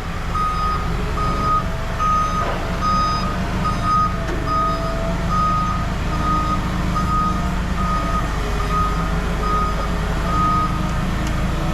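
Vehicle backup alarm beeping steadily, about two beeps a second, over the low running of a heavy vehicle's engine. The beeping stops shortly before the end.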